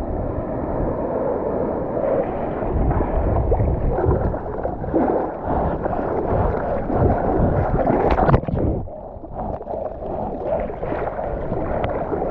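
Water sloshing and splashing around a GoPro in its waterproof housing, muffled and rumbling, with a sharper splash about eight seconds in.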